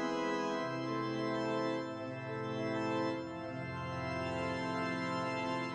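Organ music: slow, sustained chords that hold steady and shift to a new chord every second or so, the score accompanying a silent film.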